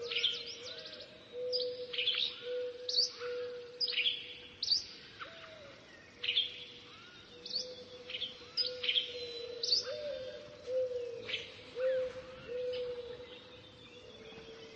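Birds chirping in short, quick sweeping calls every second or so, over a steady, slightly wavering lower tone.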